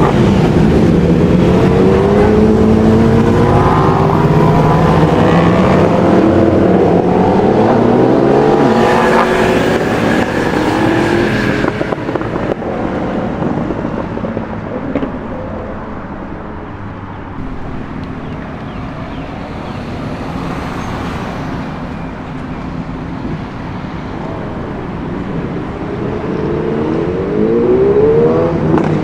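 Superbike engines revving and accelerating past, several rising engine notes in the first dozen seconds, then quieter street noise, and another engine rising in pitch near the end.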